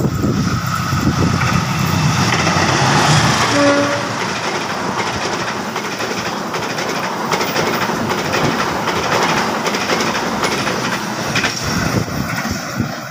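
Passenger train passing close by: a CC201 diesel-electric locomotive going past, then the coaches' wheels clattering steadily over the rails, easing off slightly near the end. A short tone sounds about four seconds in.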